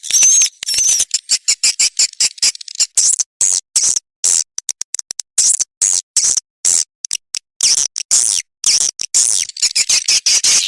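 Swiftlets twittering in a fast, stuttering stream of high-pitched chirps and clicks, with warbling chirps in the first second. This is a swiftlet lure-call recording of the kind played in swiftlet houses to call the birds in to roost and nest.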